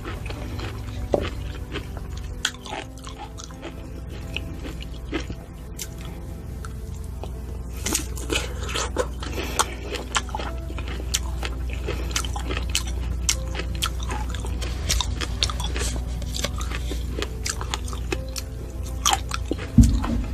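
Close-miked chewing of fresh fruit, a strawberry and blueberries, with many wet crunches and mouth clicks, over soft background music.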